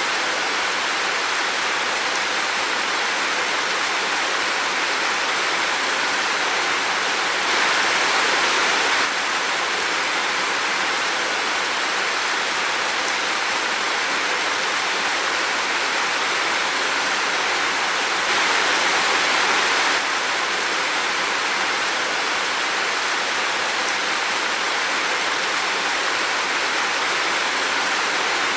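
Heavy rain pouring down as a steady, dense hiss without distinct drops. It grows slightly louder for a second or two about 7 seconds in and again about 18 seconds in.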